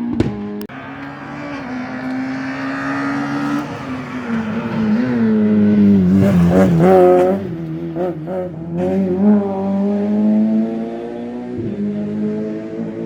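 Rally car engine revving hard on a special stage, its pitch rising and dropping repeatedly with throttle and gear changes and loudest about six to seven seconds in. A sharp crack comes right at the start and another about nine seconds in.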